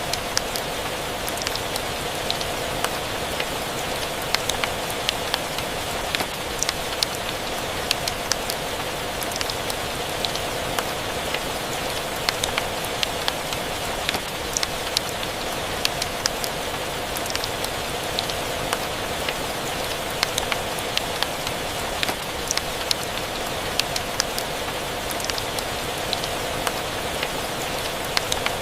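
Steady rain falling, mixed with a crackling wood fire: a continuous hiss of rain with frequent sharp pops and clicks scattered through it, several each second.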